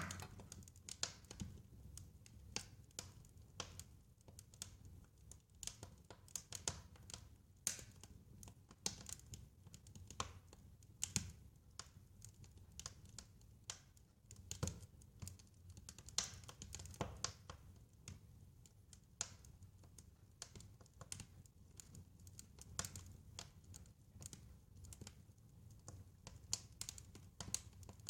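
Wood fire crackling, with faint, irregular sharp pops and snaps over a soft low rumble of flames.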